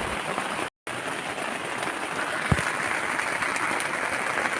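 Heavy rain drumming on the tent's fabric, a dense, steady patter. The sound cuts out completely for a moment about three-quarters of a second in, and there is one soft low thump about two and a half seconds in.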